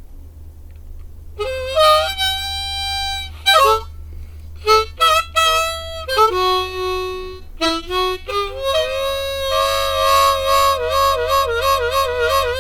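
Harmonica playing an instrumental introduction: a few held notes and short phrases, with a trill-like warble near the end, over a low steady hum.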